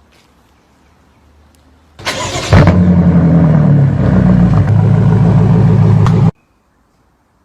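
A car engine is cranked by its starter about two seconds in and catches almost at once. It then runs loudly and steadily for a few seconds before cutting off suddenly.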